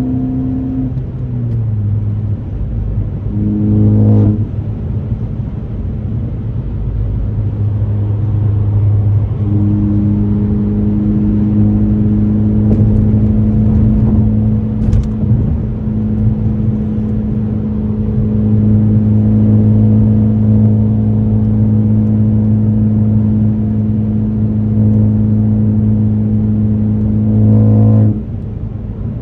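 2018 Ford Focus ST's turbocharged 2.0-litre four-cylinder and AWE axle-back exhaust droning at steady revs while driving. There is a brief surge and break about four seconds in, and the sound drops suddenly near the end as the revs fall.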